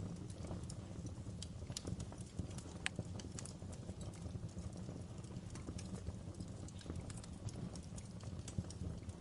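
Wood fire crackling in a fireplace, with irregular sharp pops and snaps over a steady low rumble of the flames.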